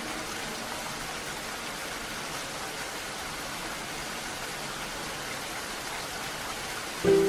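Steady rainfall, an even hiss with no distinct drops. Just before the end a soft, sustained melody note comes in over it, louder than the rain.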